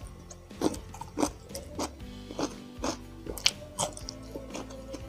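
Close-miked eating sounds of a person eating rice by hand: wet chewing and lip smacks that come as irregular sharp clicks. Steady background music plays underneath.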